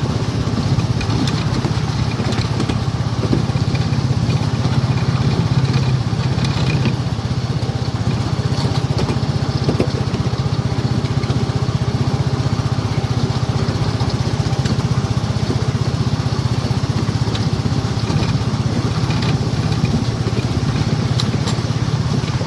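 Miniature railway train running along its track: a steady low engine rumble with a fast, even pulse, and occasional light clicks from the wheels and track.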